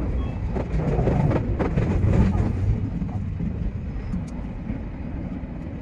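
Odakyu 3000 series electric train running, heard from inside the driver's cab: a low rumble of wheels on rail with a few clicks, growing quieter as the train slows into a station.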